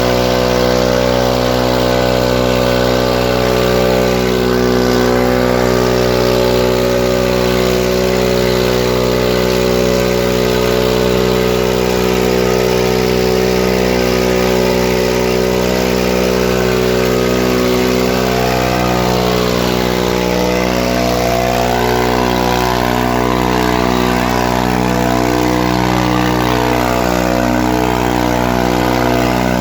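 Farmtrac 45 tractor's diesel engine running steadily, with its tone shifting slightly about two-thirds of the way through.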